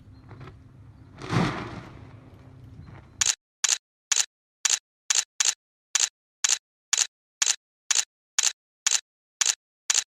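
A faint low rumble with a brief whoosh, then a run of about sixteen short, sharp clicks, roughly two a second, over dead silence.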